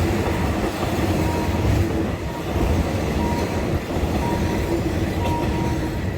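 Train running past on the rail line, a steady, continuous wheel-on-rail noise with faint tones coming and going.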